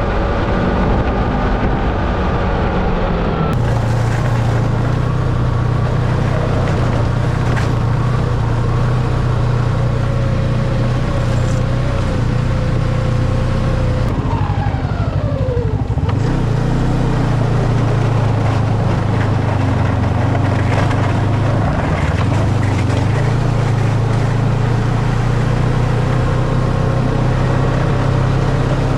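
Snowmobile engine running steadily while riding along a trail. About fifteen seconds in, the revs drop with a falling pitch, then pick up and hold steady again.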